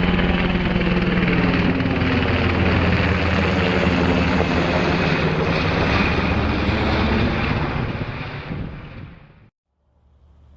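Military aircraft flying low past, a loud, steady engine drone with slowly sweeping tones. It fades near the end, then cuts off abruptly.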